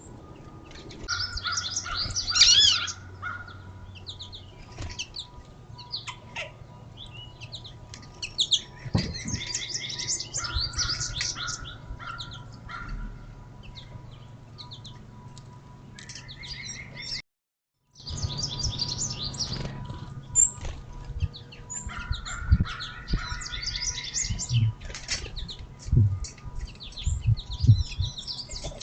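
Several songbirds at a feeder chirping and twittering in bursts a few seconds apart, with a few low thumps between the calls. The sound drops out briefly about two-thirds of the way through.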